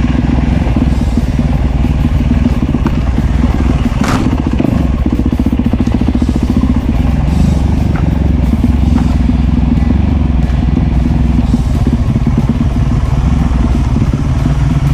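Enduro dirt bike engine running steadily as it is ridden along a trail, with a sharp knock about four seconds in and a few lighter clicks after.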